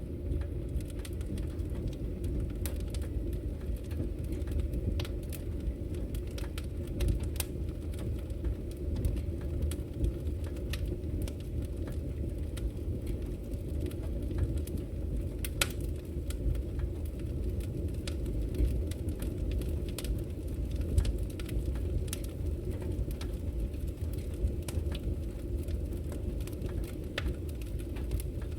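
Fire burning in a fireplace: a steady low rumble with irregular, scattered crackles and pops.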